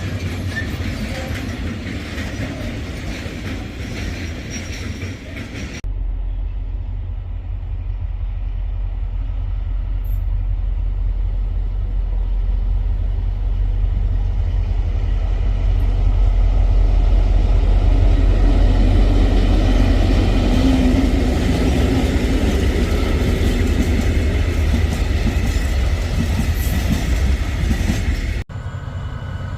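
Diesel trains on the move, in separate clips joined by abrupt cuts. After the first cut a heavy low engine rumble builds to its loudest in the middle and then eases off as the train passes.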